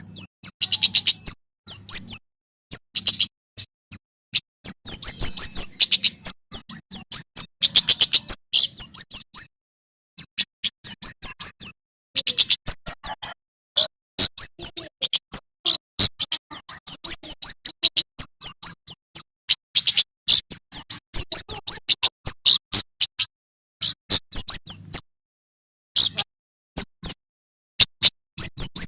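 Male prenjak keres (kemade) singing: rapid-fire trains of sharp, high chirps in quick bursts with short pauses between them, the full 'tembakan' calls used as a training recording for songbirds.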